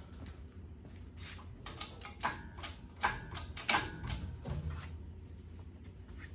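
A run of sharp metallic clanks and knocks, about a dozen over some three seconds, a few ringing briefly, over a steady low hum.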